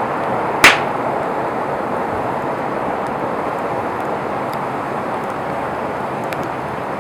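Campfire burning with a steady rushing hiss of flames and scattered small crackles, with one sharp loud pop from the burning wood under a second in.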